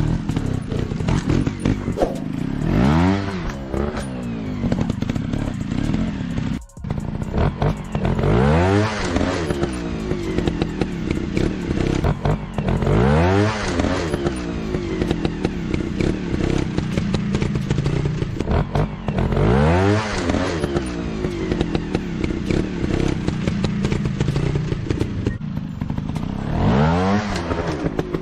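Dirt-bike motorcycle engine running and revving up five times, each rev rising in pitch, over a steady run with scattered clattering knocks.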